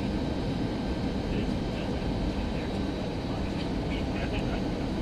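Steady low rumble of an Airbus A319 passenger cabin from a front-row seat, with a few faint, brief sounds above it.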